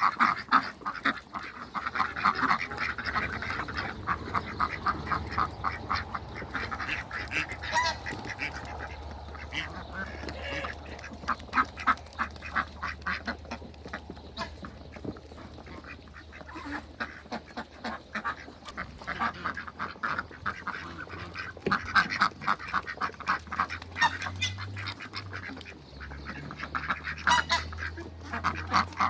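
Domestic ducks, Pekin ducks among them, quacking over and over, several birds calling at once in quick runs of short quacks.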